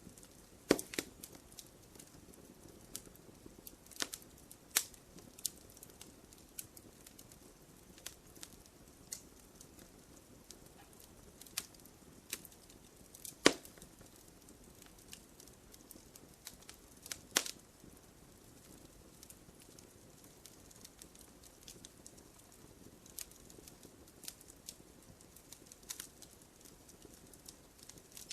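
Wood fire in a fireplace crackling: irregular pops and snaps over a soft hiss, with the loudest pop about halfway through.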